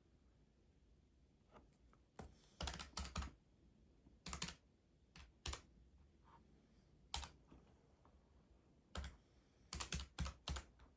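Keys being pressed in short, irregular clusters of sharp clicks, with pauses of a second or more between the clusters.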